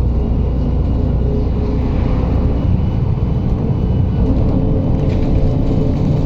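MAZ-107.468 city bus driving between stops, heard from inside the passenger cabin: a steady engine drone with road rumble.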